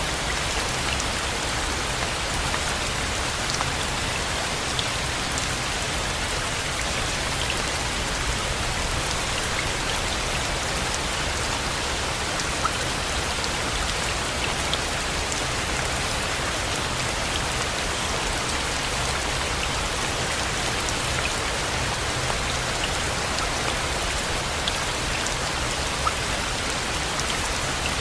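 Steady rain falling, with scattered individual drops ticking against a surface over an even, continuous hiss.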